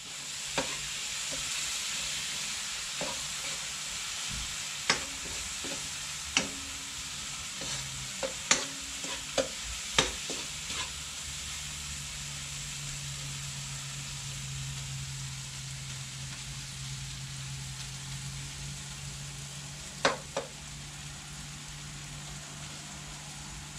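Curry base of onion, tomato and curry powder frying in oil in a metal karahi, a steady sizzle, while a metal spoon stirs it, scraping and knocking against the pan several times in the first half and twice near the end.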